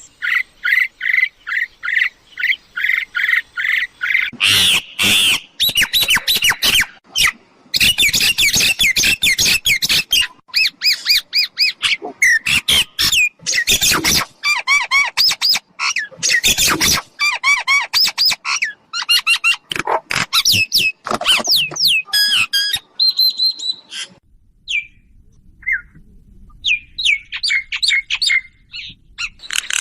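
Mynas calling: a dense, varied run of whistles, chirps and harsh squawks, with a short lull near the end. These are the calls used to lure wild mynas to a decoy bird.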